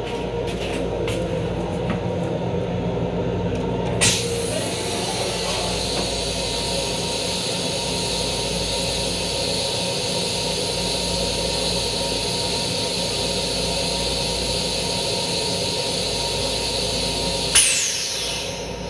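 Steady running noise of an LIRR M7 electric railcar heard inside its small restroom, with a constant hum running under it. A short click about four seconds in, as the toilet lid is raised, and another sharp click near the end.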